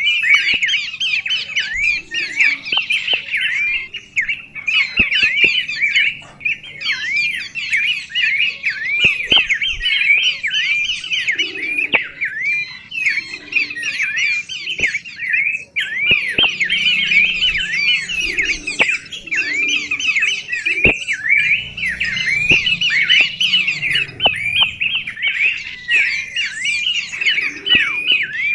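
Birds chirping nonstop in a rapid, dense stream of short high notes that swoop up and down, with a few faint clicks.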